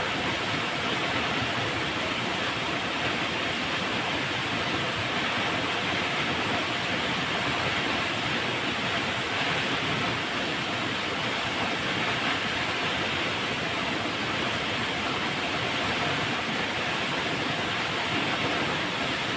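River water flowing, a steady, unbroken rushing with no changes.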